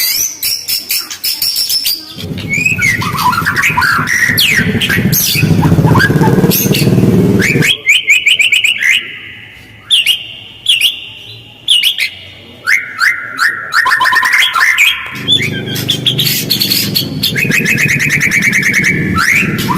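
White-rumped shama singing in fast, harsh, rapid-fire phrases with only short gaps between them, including quick repeated trills. A low steady sound runs under the song for several seconds near the start and again near the end.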